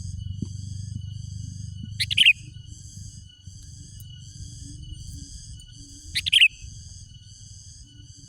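Sooty-headed bulbul (kutilang) calls: two loud, short calls about four seconds apart. Underneath runs a steady high-pitched pulsing chirr, repeating about twice a second, and a low hum.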